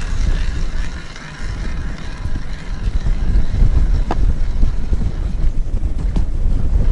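Wind buffeting the microphone: a loud, unsteady low rumble, with a few sharp clicks, one about four seconds in.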